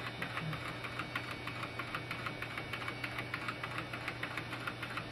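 Toy live-steam engine running, its piston knocking in a fast, even rhythm of about seven or eight strokes a second; the owner says it is throwing a rod as the burner flame dies down.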